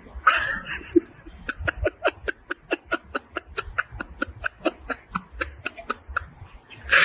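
Laughter: a long run of short, evenly spaced "ha" bursts, about four to five a second, starting about a second and a half in after a brief noisy burst.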